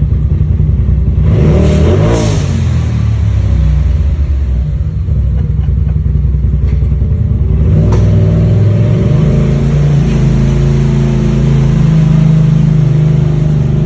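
Side-by-side UTV engine running under throttle, its pitch rising and falling, with a brief rev about two seconds in.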